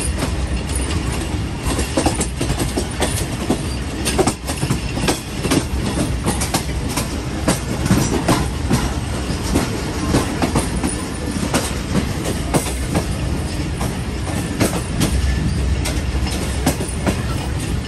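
Awam Express passenger train running along the track: a steady rumble of wheels on rail, with irregular sharp clicks and knocks as the wheels clatter over rail joints.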